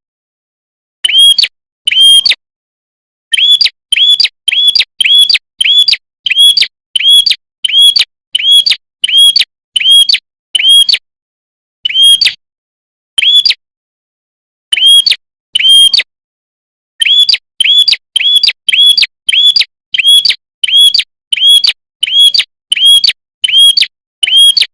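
Prinia (prenjak) call: one short chirping note repeated over and over, about two a second in runs broken by brief pauses.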